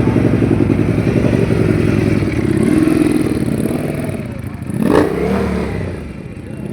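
Superbike engine running and revving, with a sharp crack about five seconds in, then the sound eases off.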